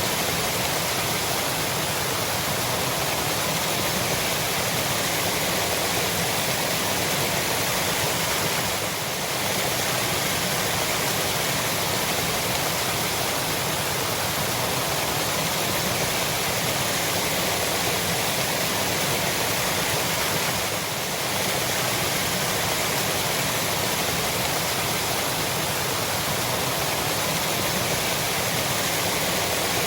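Waterfall: a steady, even rush of falling water, dipping slightly in level twice.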